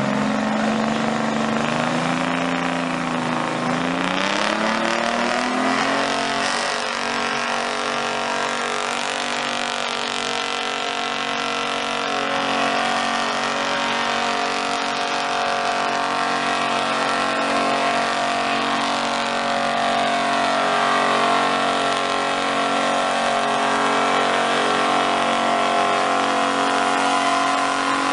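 Pulling truck's engine revving, its pitch climbing unsteadily over the first six seconds, then held steady at high revs.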